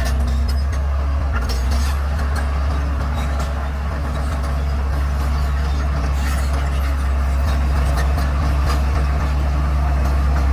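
Bulldozer's diesel engine running steadily in a low drone, with scattered short clicks and cracks over it.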